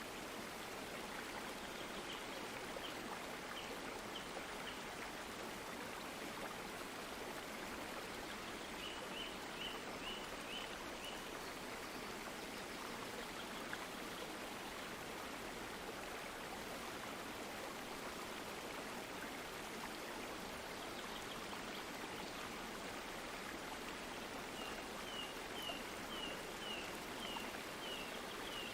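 Flowing stream water making a steady, even rush. Twice, a run of short high chirps sounds above it, one after another.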